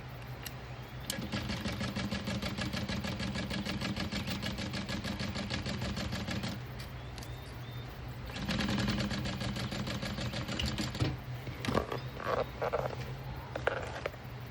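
Juki DU-1181N industrial walking-foot sewing machine stitching in a rapid, even rhythm. It runs for about five seconds, pauses briefly, then runs again for a couple of seconds. A few scattered clicks and knocks follow near the end, over a steady low hum.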